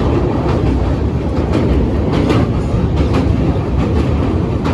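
Passenger train running on the rails: a steady low rumble with irregular clacks of the wheels over rail joints.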